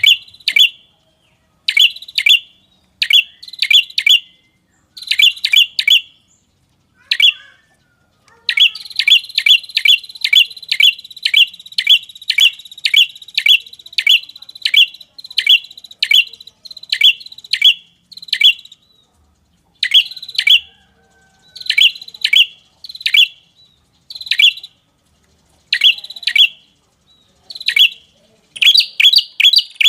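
Played-back lure call of a red-headed prenjak: loud, sharp chip notes in quick clusters of two to four, and through the middle a run of evenly spaced chips, about two a second, over a steady high trill.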